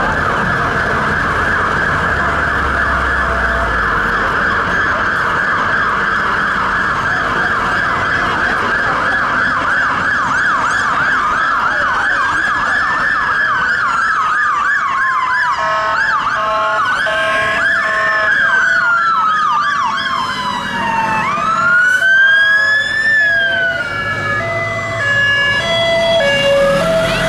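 Sirens of several London Fire Brigade fire engines on an emergency run. A fast yelp comes first. About ten seconds in, slower rising-and-falling wails overlap it, and later a lower pulsing tone joins, as more appliances pass with sirens going.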